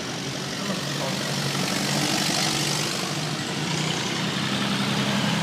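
Tractor engine running as it drives past, a steady hum that grows a little louder about two seconds in.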